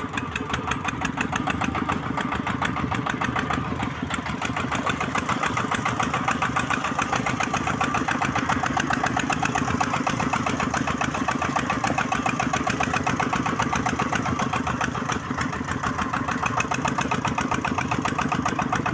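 Single-cylinder diesel engine of a công nông farm truck running steadily with a rapid, even chugging.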